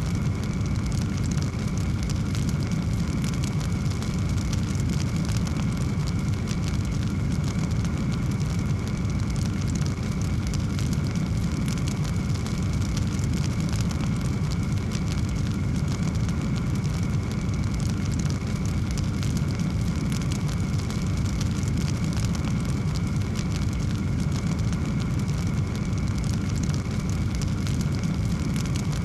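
Fire in a fireplace crackling steadily, many small pops over a low, even rumble.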